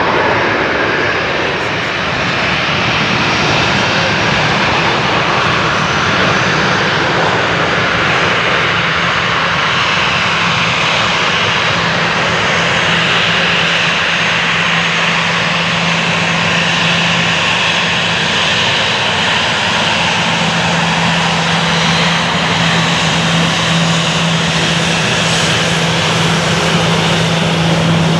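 Boeing 737-800's CFM56 jet engines running steadily and loudly, with a low hum that grows stronger about halfway through.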